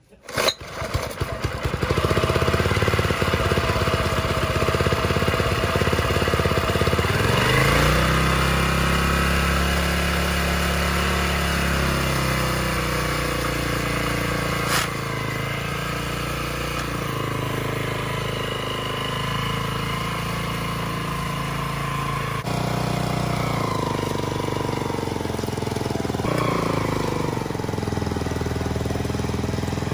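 Small four-stroke petrol engine of a restored farm machine starting and running, its speed rising about a quarter of the way in and changing again near the end.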